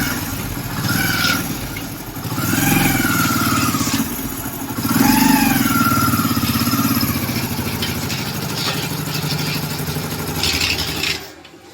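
Hero Splendor Plus motorcycle's single-cylinder engine running in gear, swelling twice with the throttle, with a grinding 'kar kar' noise and a whine over it when the clutch is let out, which the mechanic traces to a worn gearbox main shaft bearing. The engine cuts off near the end.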